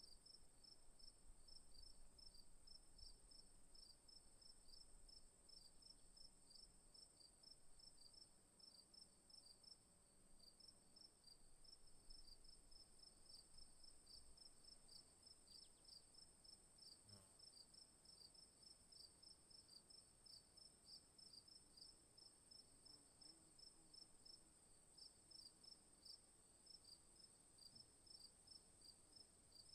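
Faint chorus of crickets and other insects: a steady high drone under a rhythmic chirping of about three chirps a second.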